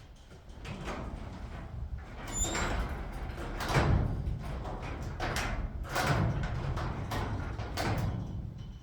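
Metal garage door rattling and rumbling as it is worked, with louder clattering surges about four, six and eight seconds in.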